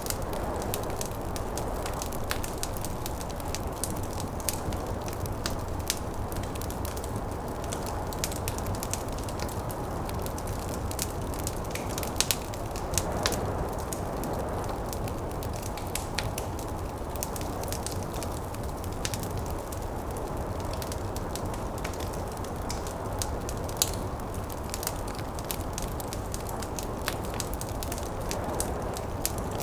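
Wood fire crackling with frequent sharp pops and snaps, over a steady low rush of snowstorm wind.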